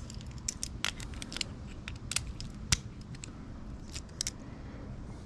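Irregular sharp metal clicks and clinks of a socket and hand tools being worked against a welded-up broken bolt stub, with a low steady hum underneath.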